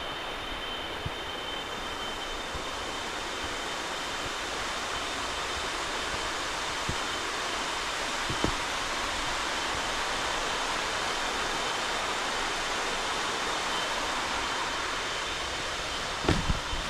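Steady rushing noise of falling water, even and unbroken, with a thin high-pitched steady tone that fades out about two seconds in and a few soft knocks near the end.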